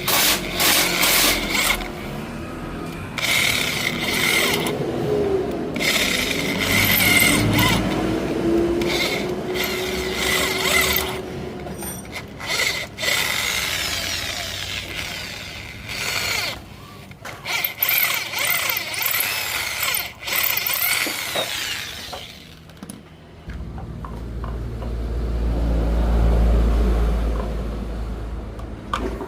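Handheld power tool running in repeated on-and-off bursts, with a low rumble near the end.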